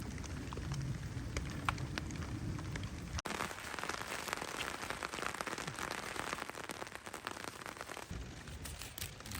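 Rain falling and pattering on surfaces, with many small sharp drop ticks. About three seconds in the sound changes abruptly: the low rumble drops away and the patter becomes denser and brighter.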